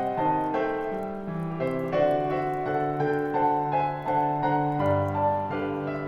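Gentle solo piano playing a Christmas song arrangement, sustained notes and chords moving at an unhurried pace.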